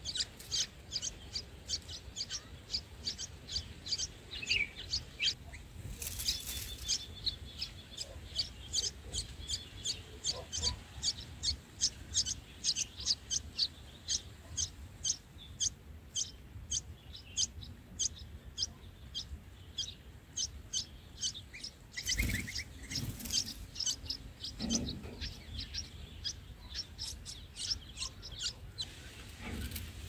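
Bulbul nestlings begging with a run of short, high-pitched cheeps, about three a second. Brief flurries of wing flaps from the parent bird come about six seconds in and again about twenty-two seconds in.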